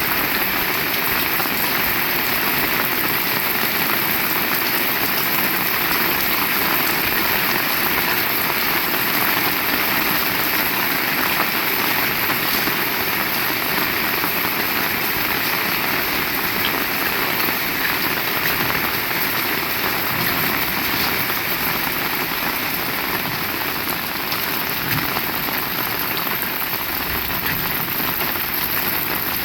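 Heavy rain falling steadily, an even hiss of rain on surfaces with no let-up.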